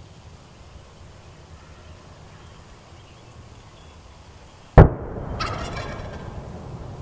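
A single sudden, very loud bang nearly five seconds in, followed about half a second later by a wild turkey gobbling briefly.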